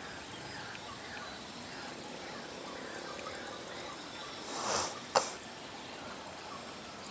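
Night ambience of a steady high insect drone with small chirping calls. About four and a half seconds in there is a brief rustling swell, followed by a single sharp snap.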